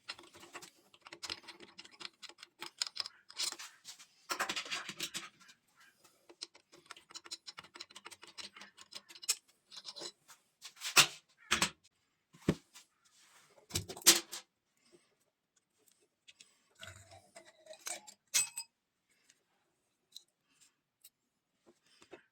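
Metal engine parts and hand tools clinking, rattling and scraping as they are handled, with a couple of sharp metal knocks midway.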